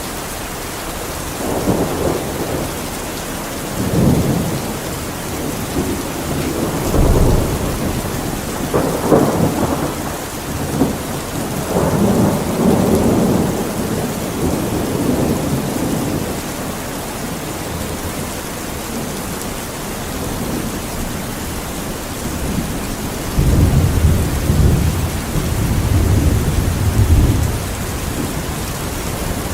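Steady rain with repeated rolls of thunder rumbling over it, the longest and deepest near the end.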